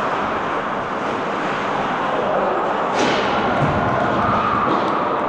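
Ice hockey rink sound during play: a steady din of skating and scattered distant voices echoing in the arena, with one sharp crack about three seconds in.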